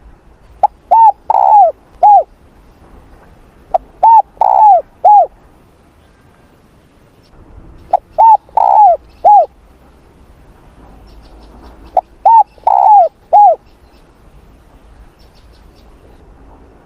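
Spotted dove cooing: four repeated phrases about four seconds apart, each a faint lead-in note followed by a short coo, a longer coo and a short closing coo.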